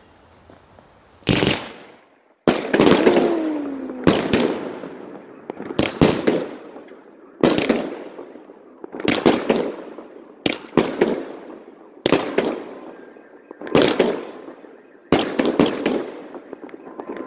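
An 11-shot consumer firework cake firing its shots one after another: about ten sharp bangs roughly a second and a half apart, each trailing off with an echo.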